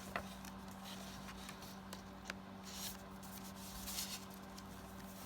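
Paper and card stock rustling, with light scattered taps and clicks, as journal cards and tags are handled and slipped into paper pockets. A faint steady low hum sits under it.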